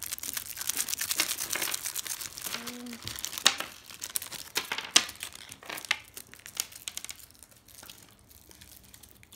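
Plastic packaging crinkling and rustling as it is handled: a dense run of small crackles that thins out after about seven seconds.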